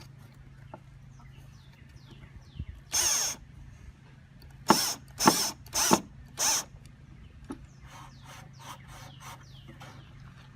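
A power drill whirring in short trigger bursts as it drives screws into wood: one longer burst about three seconds in, then four quick ones a little over half a second apart. Small birds chirp faintly in between.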